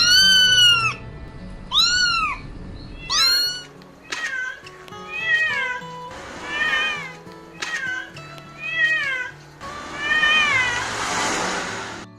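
Kittens meowing again and again, about nine calls each rising then falling in pitch, the first three the loudest, over soft background music.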